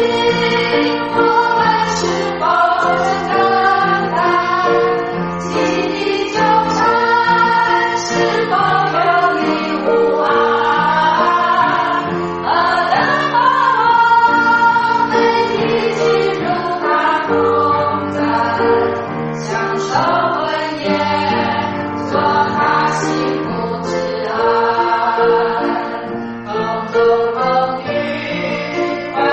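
Choral singing with musical accompaniment, sung melody lines gliding over sustained chords.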